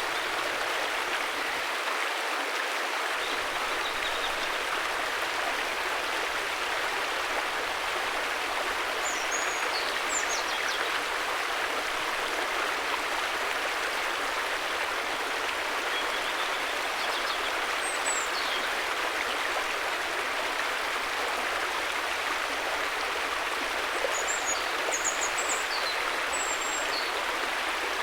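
River water flowing, a steady rushing. A few faint, short high chirps come through now and then.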